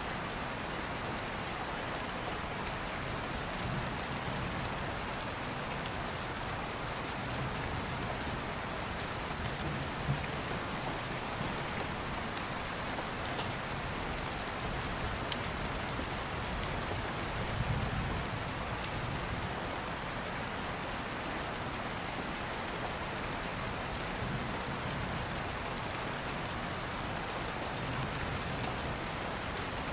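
Steady rain falling on a surface, with a few faint sharp crackles and soft low rumbles now and then.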